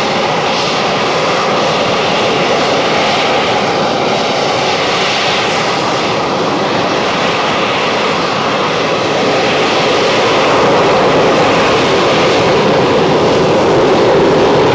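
Harrier jump jet's Rolls-Royce Pegasus jet engine running with a loud, steady noise that grows a little louder from about ten seconds in.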